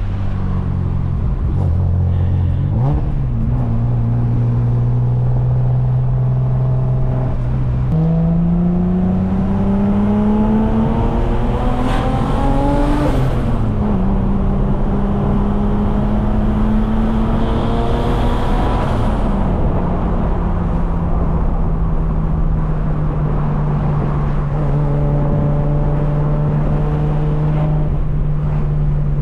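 Turbocharged BMW M50 inline-six engine of an E36 under way: it runs steadily, then about eight seconds in pulls up in pitch for several seconds under acceleration and drops sharply at a gear change. It holds a steady higher pitch, drops again shortly before twenty seconds in and settles to a steady cruise.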